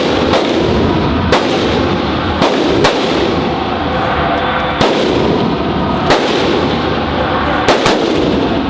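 Gunshots at an indoor shooting range: about eight single shots at irregular intervals, two in quick succession near the end, over a steady loud background din.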